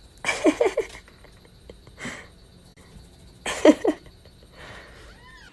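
A pet making short, rough vocal noises, as if talking: two loud outbursts with a wavering pitch, about three seconds apart, and a softer one between them.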